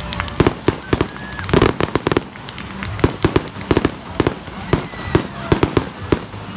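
Fireworks going off: a rapid, irregular string of sharp pops and crackles, some in quick clusters, with a faint short whistle now and then.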